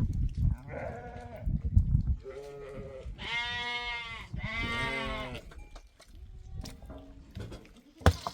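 A flock of sheep or goats bleating: four bleats, two short ones, then two louder, longer ones of about a second each in the middle. A low rumble runs under the first two seconds, and a single sharp knock comes near the end.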